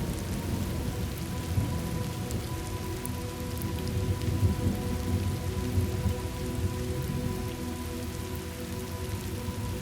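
Steady rain with a low, rolling rumble of thunder underneath, from a thunderstorm ambience track; faint steady tones hold beneath it.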